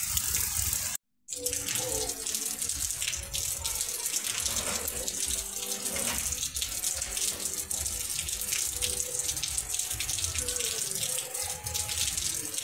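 Heavy rain falling steadily, a dense even hiss. The sound cuts out for a moment about a second in, then the rain carries on.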